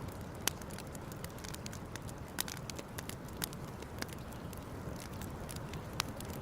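Campfire crackling: irregular sharp pops and snaps of burning wood, a few a second with several louder ones, over a steady low rumble.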